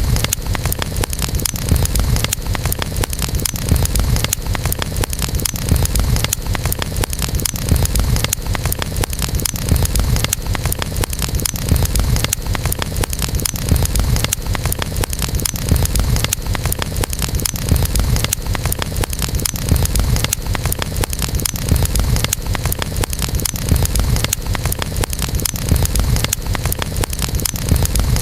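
Wood campfire burning, crackling continuously in dense rapid snaps over a steady low rumble.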